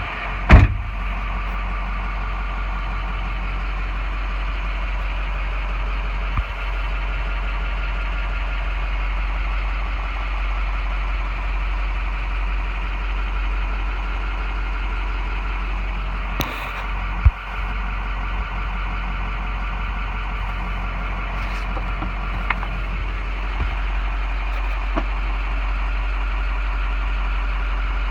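Ford F-550 bucket truck's engine idling steadily, with a sharp knock about half a second in and another a little past the middle.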